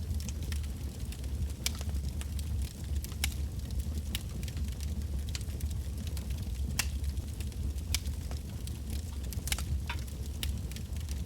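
Wood bonfire burning with a steady low rumble of flame, and irregular sharp crackles and pops from the burning logs, several a second.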